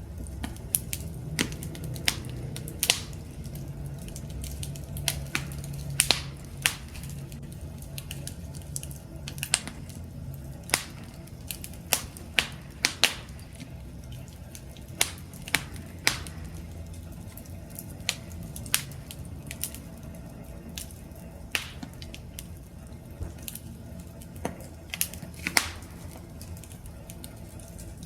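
Wood fire crackling: sharp irregular pops and snaps, roughly one or two a second, over a steady low rumble of burning.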